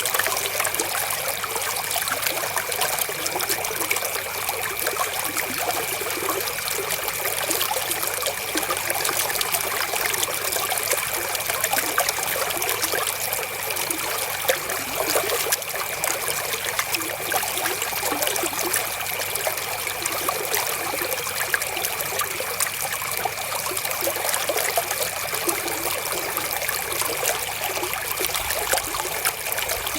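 Flowing river water: a steady, unbroken trickling rush.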